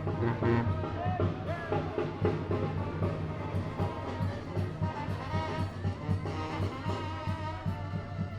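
A tamborazo brass band playing: trumpets and trombones carry the melody over a steady beat of bass drum and snare.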